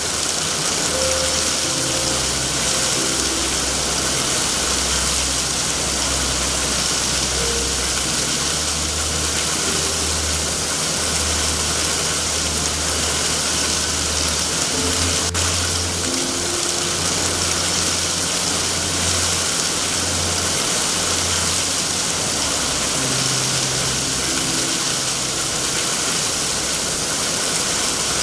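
Steady heavy rain, with a low rumble underneath that swells and fades.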